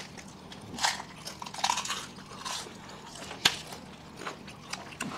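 Close-up crunching and chewing of crisp fuchka (pani puri) shells, heard as several short crisp crunches, the sharpest about three and a half seconds in.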